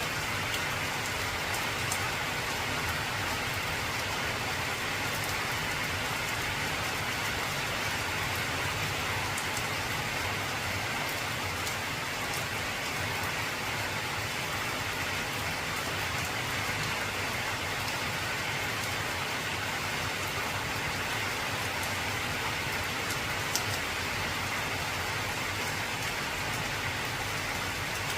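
Heavy rain falling steadily on an old corrugated zinc (tin) roof: a dense, even hiss of drops on the metal, with a few sharper single drop ticks, about two seconds in and again near the end.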